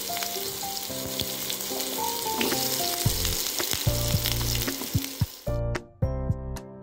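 Diced potatoes sizzling as they fry in hot oil in a pan, with background music underneath. The sizzling cuts off suddenly about five and a half seconds in, leaving only the music.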